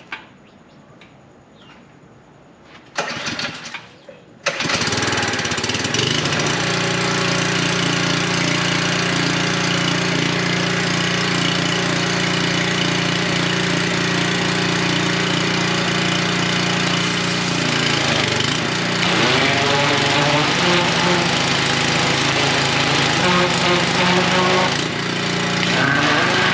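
Gas pressure washer's small engine being pull-started: a brief cranking burst about three seconds in, then it catches about a second later and runs steadily. Its note shifts and wavers around eighteen seconds in and dips briefly near the end.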